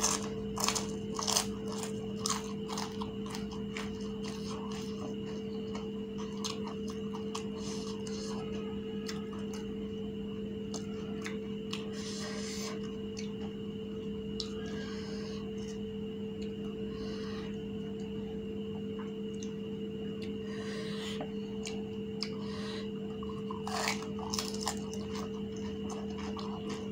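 Crisp fuchka (pani puri) shells crunching as they are bitten and chewed, with wet chewing in between. The sharpest crunches come in the first few seconds and again near the end. A steady hum runs underneath throughout.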